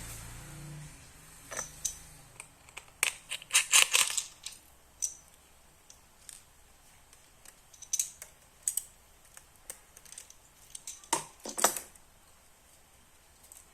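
Hand-unpacking of a parcel: scattered clicks, taps and rustles of plastic packaging, with bursts of sharp clicks about three to four seconds in, around eight to nine seconds, and again around eleven to twelve seconds.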